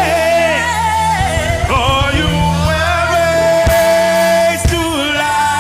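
Gospel worship song: a singer holds long, wavering notes over a band's steady accompaniment.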